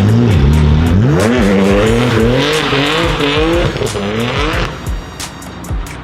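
A car engine revving up sharply about a second in, its pitch wavering up and down while the tyres squeal, then dropping away near the end.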